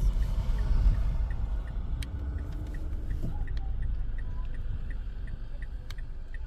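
Car running, heard from inside the cabin as a steady low rumble. A light, evenly spaced ticking about three times a second comes from the turn-signal indicator.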